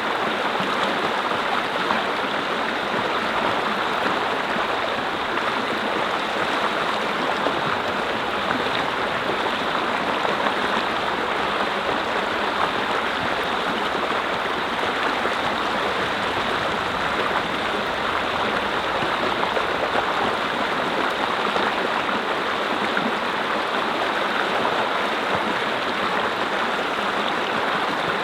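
Mountain stream flowing and babbling over rocks, a steady, even rush of water.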